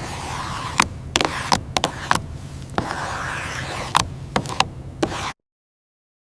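Irregular sharp clicks and knocks of hand work on metal parts over a steady background noise, stopping dead about five seconds in.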